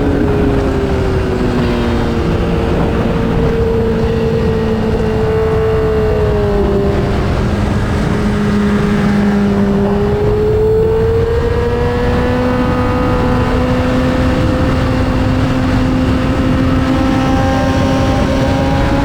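2008 Honda CBR600RR's inline-four engine running hard at speed, with a steady rush of wind. The engine pitch eases down about six seconds in, holds low, then climbs steadily from about ten seconds on as the bike accelerates.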